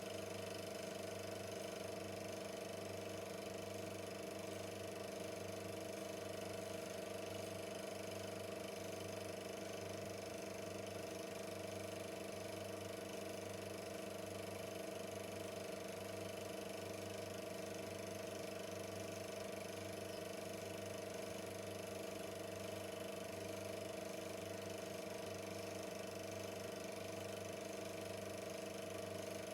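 Super 8 film projector running: a steady motor hum with the even mechanical whir of the film transport, unchanging throughout.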